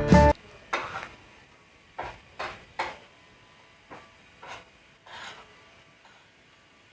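Guitar music cuts off just after the start, followed by a series of about seven short scraping, crunching sounds from food being handled and eaten, each lasting a fraction of a second.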